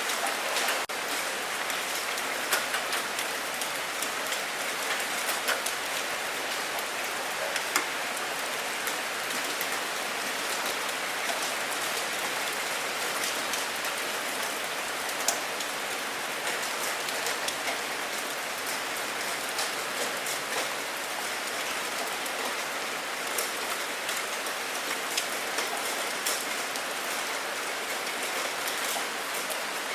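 Steady rain falling on a surface, a continuous hiss with many scattered individual drop ticks.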